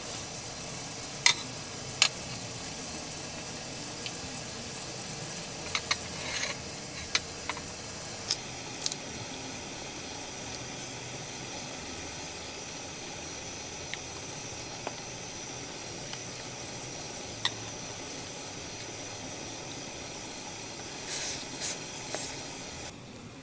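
Food frying in a pan: a steady sizzle with scattered sharp pops, a few more together near the end.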